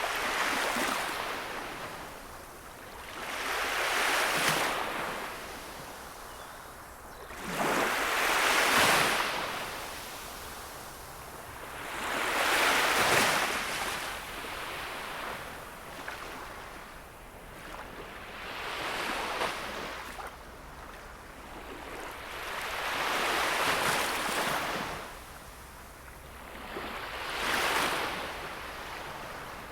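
Gentle sea waves washing onto the shore of a calm sea, each one a hissing surge that swells and fades, about one every four seconds.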